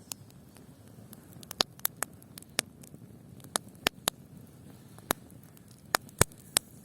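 Campfire crackling: a dozen or so sharp, irregular pops of burning wood, the loudest a little past six seconds in, over a faint low background hiss.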